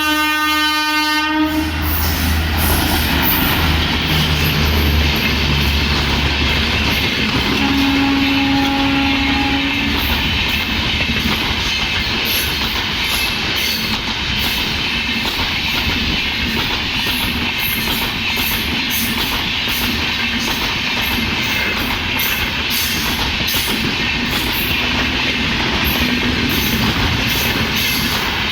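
Indian Railways WAP-4 electric locomotive sounding its horn in a short blast at the start and again about eight seconds in. The train then passes at speed with a steady loud rush and wheel clatter from the coaches.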